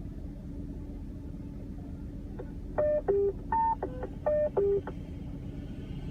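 Quick sequence of six short electronic beeps on a scanner radio, each at a different pitch, coming about halfway in over a steady hum and hiss of radio static.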